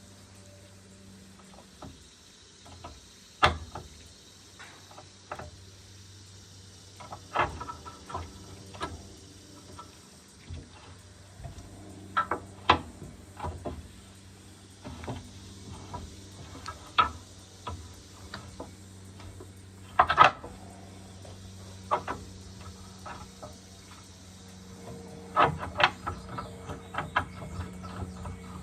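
Irregular metal clinks and knocks of hand tools working on the hydraulic hose fittings of a skid steer, over a steady low hum.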